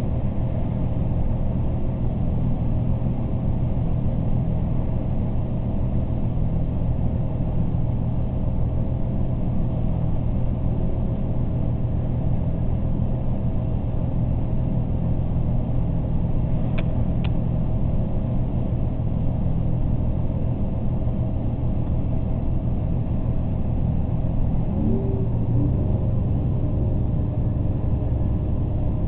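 Diesel regional train heard from inside the carriage while running at speed: a steady rumble with a low engine hum. There are two sharp clicks about halfway through. Near the end a short rising tone is heard, after which the low hum changes pitch.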